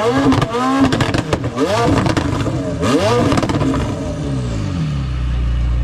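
A car engine revved in a series of about four quick throttle blips, each rising and falling in pitch, then settling to a steady idle near the end.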